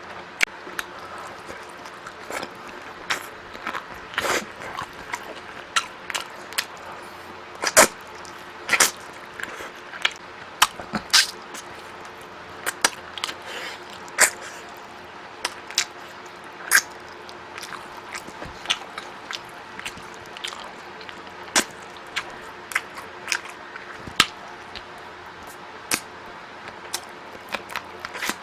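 A person eating close to the microphone: irregular sharp clicks, crunches and smacks of biting and chewing, coming in uneven clusters.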